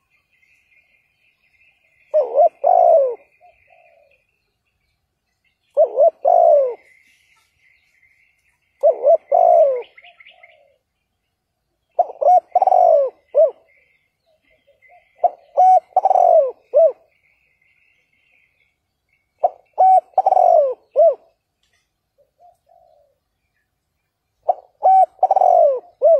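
Spotted dove cooing: seven short, repeated coo phrases about every three to four seconds, the lure call used to excite wild doves. Faint, higher chirping of another bird runs between some of the phrases.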